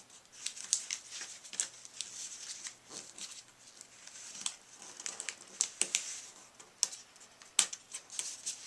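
A square of origami paper being folded and creased by hand: irregular crinkles and sharp crackles as the flaps are pressed flat.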